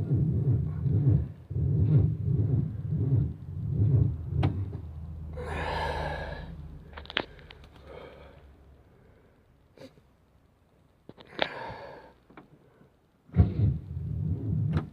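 400 small-block Chevy V8 in a motorhome cranking slowly on a booster pack, the starter turning it over in uneven throbs for about four and a half seconds without it catching: batteries almost dead in deep cold. A breathy hiss and a few clicks follow, then a brief second crank near the end.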